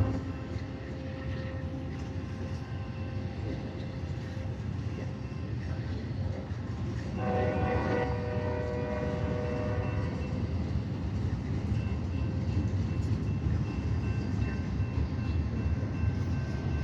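Container freight train passing with a steady low rumble. About seven seconds in, a horn sounds a held chord for about three seconds.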